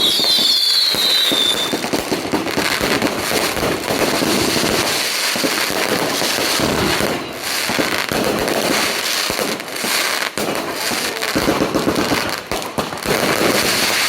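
Firecrackers and fireworks going off in a dense, continuous crackle of bangs. Falling whistles sound over it in the first couple of seconds.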